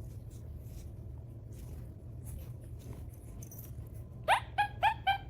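A steady low rumble, then near the end a quick run of about half a dozen short, high animal calls, some five a second, the first one sweeping upward.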